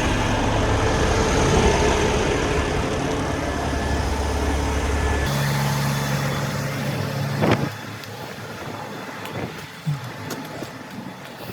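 Heavy tow truck driving on the highway, a steady engine and road rumble. About five seconds in it cuts off suddenly to a quieter steady hum with a single knock, then light clicks.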